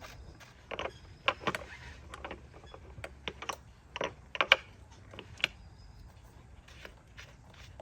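Hand tools and loose metal engine parts clicking and clinking irregularly during engine disassembly. A sharp knock about four and a half seconds in is the loudest.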